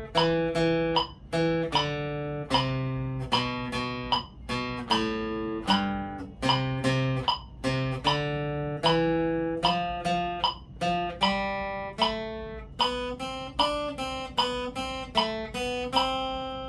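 Acoustic guitar playing a single-note melody in C major, one plucked note at a time, about two notes a second, quickening to shorter notes near the end.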